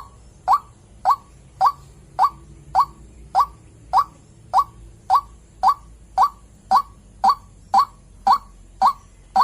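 White-breasted waterhen (ruak-ruak) giving its 'klepek' call: a short, mid-pitched note repeated evenly, about two a second.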